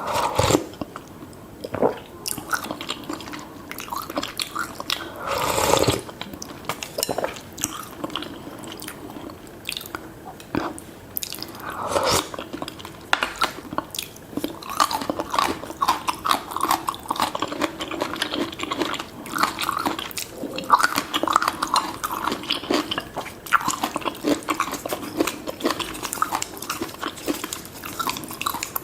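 Close-miked eating of spicy seafood noodle soup with tofu: irregular chewing and biting with wet mouth clicks, and two longer, louder wet sounds about six and twelve seconds in.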